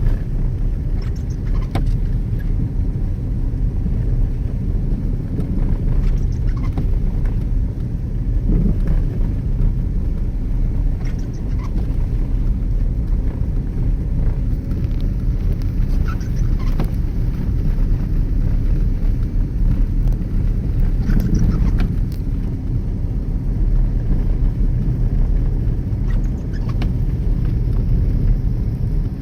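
Car driving on a road: a steady low rumble of engine and tyres, with faint ticks about every five seconds.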